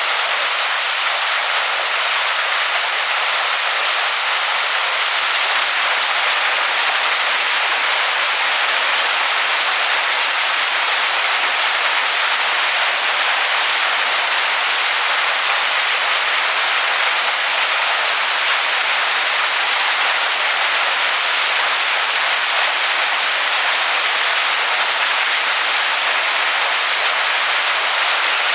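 Waterfall splashing onto rocks: a steady, even hiss of falling water, bright and without much low rumble.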